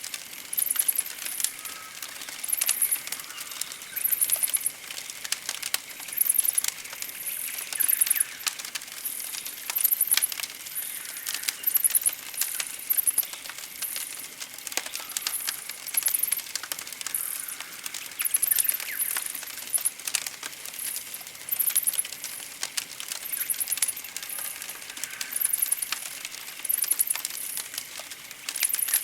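Campfire crackling with sharp scattered pops, over very high, rapidly pulsing chirps that repeat about once a second, with faint birdsong.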